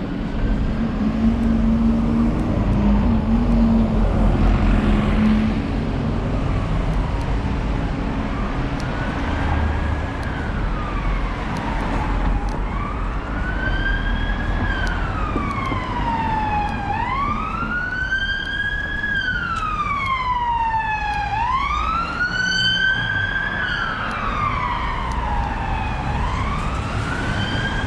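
Emergency vehicle siren wailing, its pitch sweeping slowly up and down about every four to five seconds, faint at first and getting louder from about halfway through as it approaches. Road traffic rumbles underneath, with a heavier vehicle engine passing early on.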